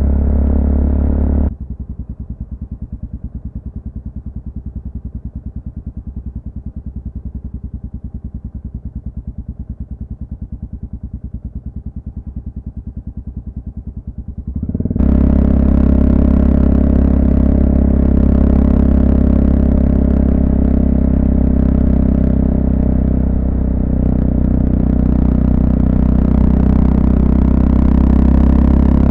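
Honda FMX650's single-cylinder engine idling with an even, rapid beat while the bike is stopped. About halfway through it gives way to the engine running at road speed with wind rush over the helmet.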